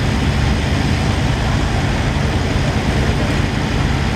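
Tractor engines running with a loud, steady low rumble.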